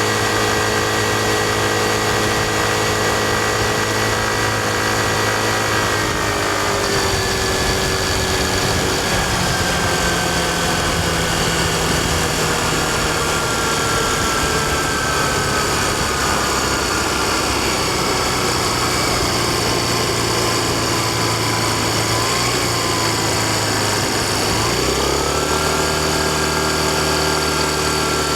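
Yamaha Fazzio scooter's 125cc single-cylinder engine heard on the move, with steady wind and road noise. The engine note holds steady, then falls slowly over a long stretch as the scooter slows. Near the end it rises quickly and settles at a steady pitch again.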